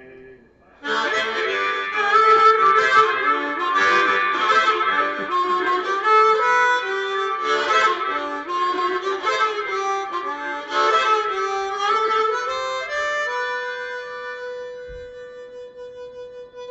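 Blues harmonica solo, starting about a second in with bright chords and runs. It ends on a long held note that gradually fades.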